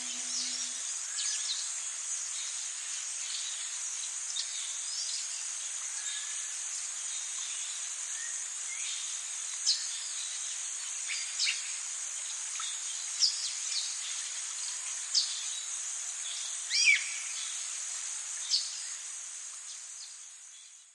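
Tropical forest ambience: a steady high-pitched chorus of insects with scattered short bird chirps, the loudest near the end, fading out at the close.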